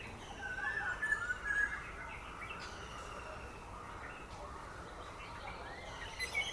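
Faint background birdsong: short gliding chirps and whistles over a steady outdoor ambience hiss. The chirps cluster from about half a second to two seconds in and return briefly near the end.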